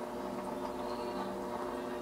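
Fish-tank filter pump humming steadily, with water trickling and a few faint ticks.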